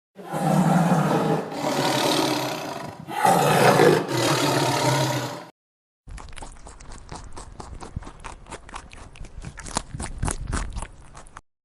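Loud, drawn-out calls from a large animal, two long bellows back to back. After a short break comes a quieter, steady run of crackling and clicking.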